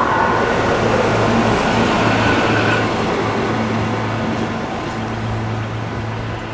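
A SEPTA Silverliner V electric multiple-unit commuter train rolling past on the rails, wheel and rail noise over a steady low hum. It fades gradually from about three seconds in as the last car passes and the train moves away.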